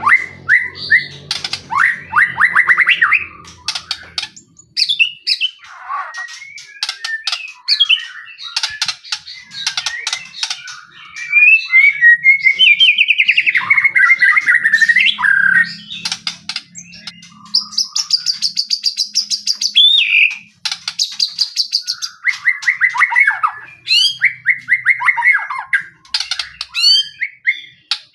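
White-rumped shama singing a loud, varied, continuous song of fast rattling trills, high buzzy phrases, gliding whistles and sharp clicks with brief pauses between them. It is the full 'gacor' song used to provoke other shamas into answering.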